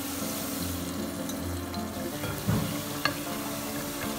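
Chicken and fenugreek-leaf broth simmering with a steady hiss in a clay pot, over soft background music, with a couple of light knocks past the middle.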